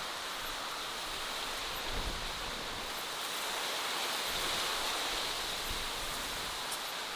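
Steady natural outdoor ambience: an even, unbroken hiss with no clear single event.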